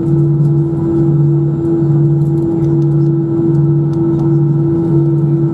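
Airbus A319's jet engines at idle heard inside the cabin, a steady hum with a throb about once a second.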